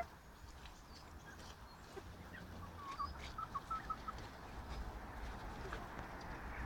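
Pekin bantam chickens making soft, quiet calls, with a quick run of short notes about three seconds in and faint scattered ticks around them.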